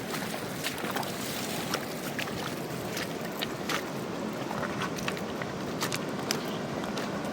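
Fast-flowing mountain river rushing steadily, with many small splashes and clicks scattered through the wash of water.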